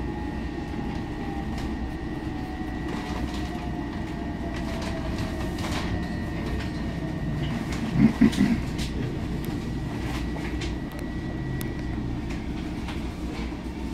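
Long Island Rail Road electric train heard from inside the car as it slows into a station: a steady rumble under a whine that falls slowly in pitch as the train loses speed, a steady high tone that stops near the end, and scattered clicks. A brief loud burst of low sound comes about eight seconds in.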